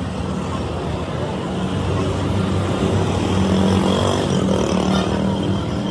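A motor vehicle's engine running steadily, growing louder toward the middle and easing off a little near the end.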